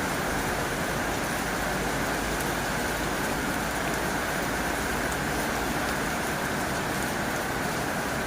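Heavy rain drumming steadily on a tin roof, a dense even hiss with scattered drop ticks.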